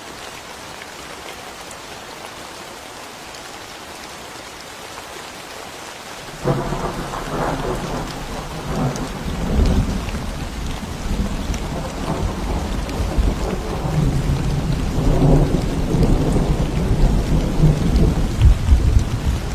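Steady rain falling, then about six seconds in a thunderclap breaks in suddenly and rolls on as a long low rumble that builds toward the end, with the rain still falling under it.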